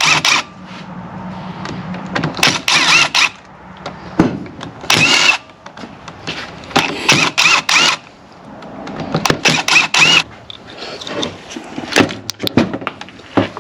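Repeated short scraping strokes of a torch tip cleaner working the corroded pins of the transmission solenoid-pack connector, several strokes giving a brief squeak.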